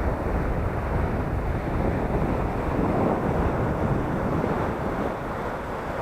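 Surf washing onto a sandy beach in a moderate sea, with wind buffeting the microphone as a steady low rumble.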